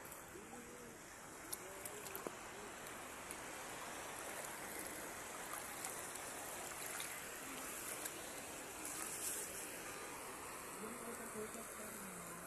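Steady rushing wash of shallow seawater, with a few small clicks and faint voices talking in the background near the start and again near the end.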